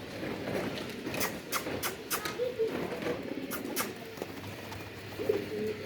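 Pigeons cooing in short, low coos, twice in a few seconds, with scattered sharp clicks and taps between them.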